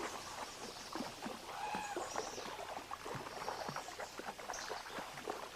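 Water splashing and sloshing in many small, irregular splashes as buffalo swim across a stream.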